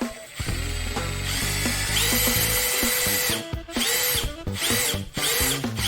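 Milwaukee M18 18V cordless impact driver run with the trigger feathered: the motor spins up to a higher pitch, holds a steady whine, then stops and spins up again several times in short pulls, showing its fine variable-speed trigger control.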